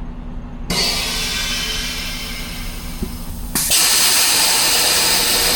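Compressed air hissing from a Scania R560 truck's air suspension as the lift axle is switched and its air bellows fill or vent. A hiss starts suddenly under a second in, then a louder hiss cuts in about three and a half seconds in.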